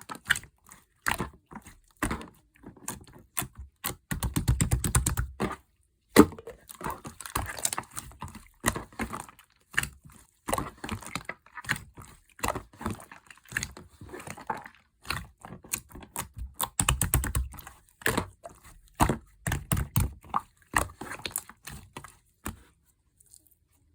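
Slime being worked by hand, giving dense runs of sticky clicks and pops, with heavier, thicker squelching stretches twice, and stopping shortly before the end.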